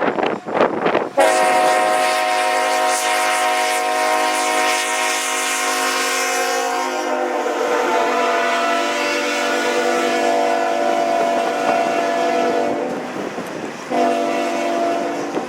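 Locomotive air horn on a CN train, several notes sounding together in one long blast that drops slightly in pitch about halfway through, then a shorter blast near the end. Wind buffets the microphone for the first second.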